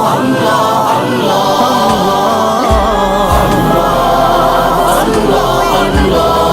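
Devotional vocal music: a chorus of voices holding a wordless melody, joined about three seconds in by a deep bass drone with a few low thumps.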